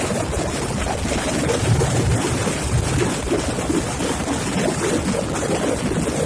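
Helicopter rotor and engine running steadily, with wind buffeting the microphone.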